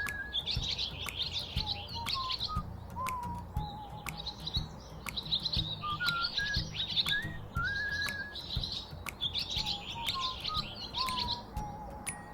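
Many small birds chirping and twittering in quick high clusters. Over them, a clearer whistled song of a few short notes that step downward repeats about every six seconds.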